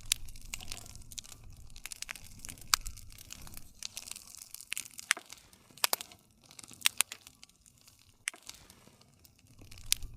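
Wood campfire crackling: irregular sharp pops and snaps over a soft hiss and rustle of burning wood, with a few louder pops scattered through.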